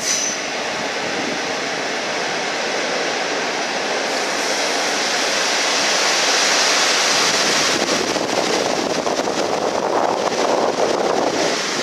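TLK passenger train hauled by an EU07 electric locomotive rolling past a platform: a loud steady rumble of wheels on rails that grows louder over the first several seconds, then turns choppier and more irregular from about eight seconds in.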